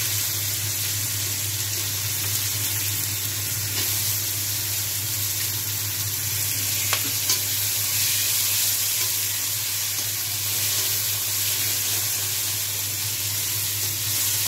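Onions, spices and freshly added chopped tomatoes sizzling in hot oil in a kadhai while a metal spatula stirs and scrapes them, with a couple of sharp clicks about seven seconds in. A steady low hum runs underneath.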